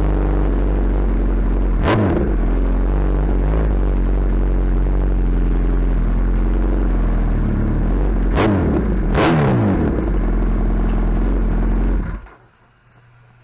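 Suzuki Hayabusa's inline-four engine idling loudly through its exhaust, revved sharply three times, the pitch falling back to idle after each. The engine sound cuts off about twelve seconds in.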